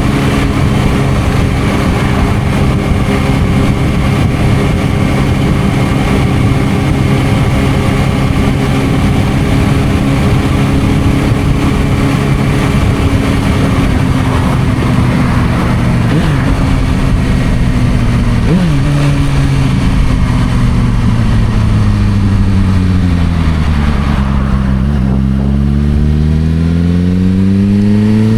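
Suzuki GSR600's inline-four engine through an aftermarket Dominator exhaust, holding a steady pitch, then falling in steps as the bike slows and shifts down, and rising again for the last few seconds as it accelerates.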